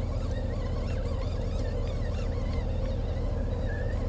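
Birds chirping and calling repeatedly over a steady low rumble.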